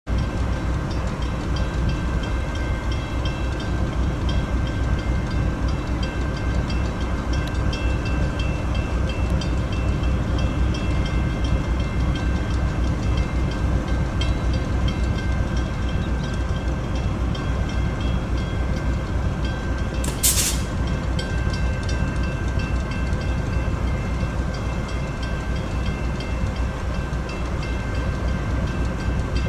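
Diesel locomotive running steadily, a continuous low rumble with a steady whine above it; a brief hiss about twenty seconds in.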